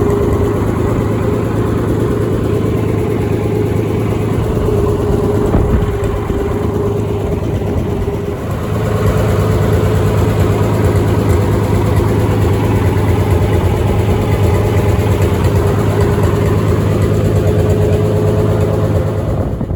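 Farm tractor engine running steadily, a little louder from about eight and a half seconds in.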